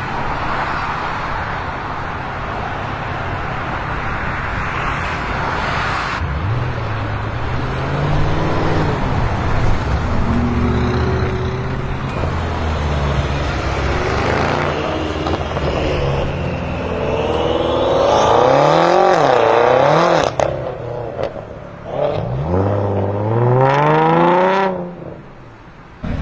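BMW M6 Gran Coupe's twin-turbo V8 through an Akrapovic exhaust, accelerating hard and revving. It opens with a steady rush of noise for about six seconds, then the engine note climbs and falls several times, with two hard climbs late on; the last cuts off sharply about a second before the end.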